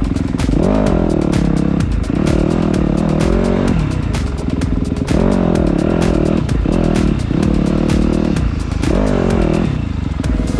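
Dirt bike engine revving up and down over and over, about once a second, as it is ridden along a rough trail, with low rumble and scattered clattering.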